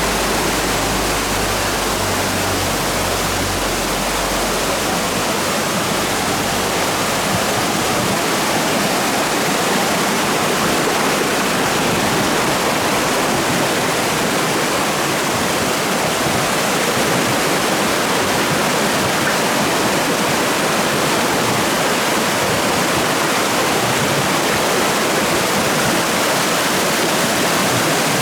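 Shallow river water rushing over rocks and small cascades in a steady, loud flow.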